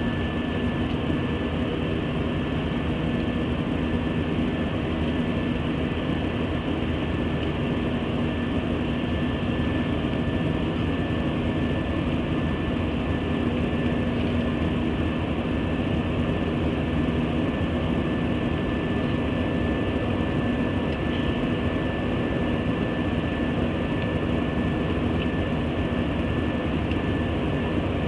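Jet airliner's engines and airflow heard from inside the passenger cabin, a steady loud drone with a constant hum, as the plane climbs after takeoff.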